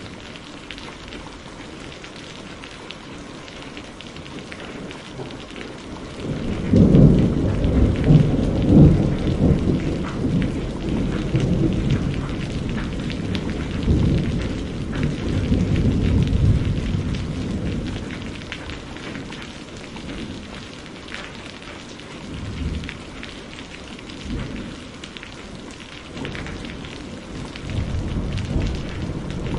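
Steady rain falling, with a long roll of thunder that swells about a third of the way in, rumbles for around ten seconds and fades. Two shorter, fainter rumbles follow near the end.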